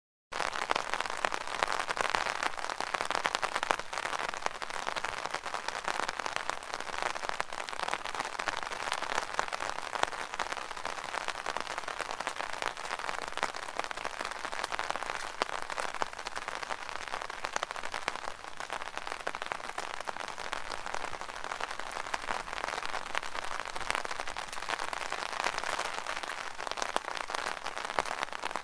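Rain falling on an umbrella: a dense, steady hiss of countless small drop hits on the canopy. It starts suddenly just after the beginning.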